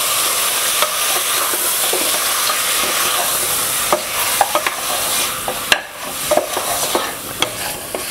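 Mutton and ground masala sizzling in hot oil in a pressure cooker while a wooden spatula stirs it, scraping and knocking against the pot. The sizzle fades about halfway through, leaving mostly the spatula's scrapes and knocks.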